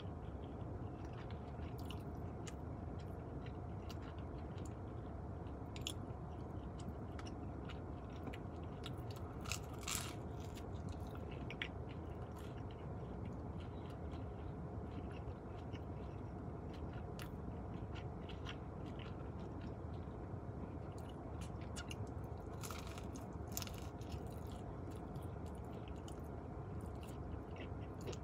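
Close-miked chewing and biting of a pizza slice, with small mouth clicks throughout. A few sharper crunchy bites stand out about ten seconds in and again around twenty-three seconds in, over a steady low background rumble.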